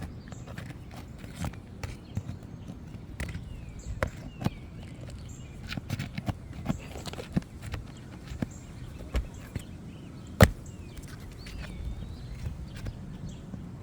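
Scattered clicks and knocks of a roofing tool working under asphalt shingles to pull their nails, with one much louder knock about ten seconds in.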